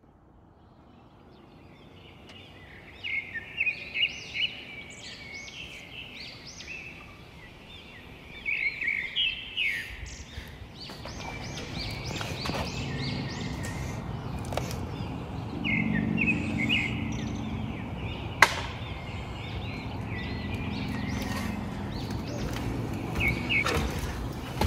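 Songbirds singing in short repeated chirping phrases over a low background rumble that builds from about halfway through, with one sharp click about three quarters of the way in.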